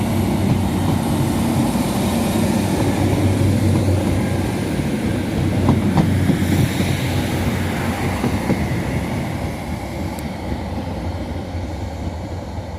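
Diesel multiple unit train running through the station with a steady low engine and rail hum, a couple of sharp wheel clicks about six seconds in, slowly fading as it draws away.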